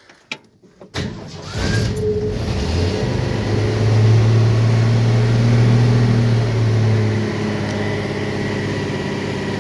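1966 Ford F100 pickup's engine cranking and catching about a second in, then held at raised revs for a few seconds before easing to a steady fast idle. It is a cold start on a hand-primed carburettor with no choke or accelerator linkage hooked up.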